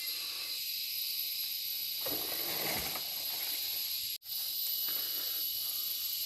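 Steady high-pitched drone of a rainforest insect chorus of cicadas and crickets. A brief lower, noisy sound breaks in about two seconds in, and the sound drops out for an instant just after four seconds.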